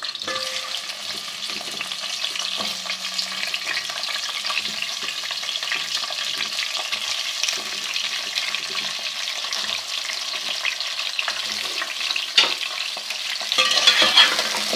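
Fish heads frying in hot ghee in a pan: a steady crackling sizzle that grows louder near the end, with a few knocks of a spoon stirring them.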